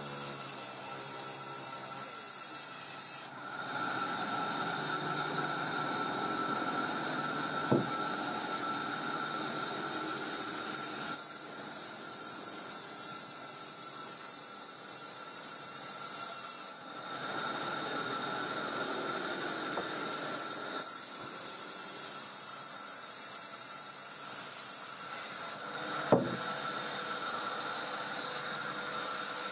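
Sawmill saw cutting coconut-palm timber: a steady whine over a rasping hiss that shifts abruptly several times, with two sharp knocks, about eight seconds in and near the end.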